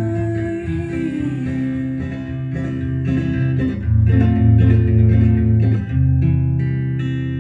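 Acoustic guitar playing an instrumental passage of a folk song, with no singing; it gets louder about four seconds in.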